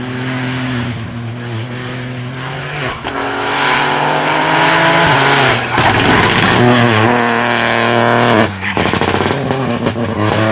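Rally car engine accelerating hard through the gears, getting louder as it approaches. The revs climb and then drop sharply at upshifts about three seconds in, around five seconds and again near the end.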